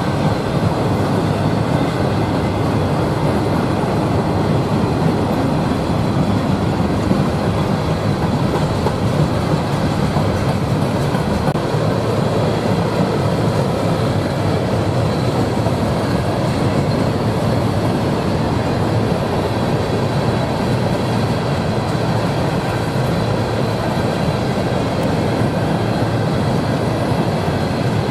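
A train's cars rolling steadily past, steel wheels running on the rails with an even, unbroken noise.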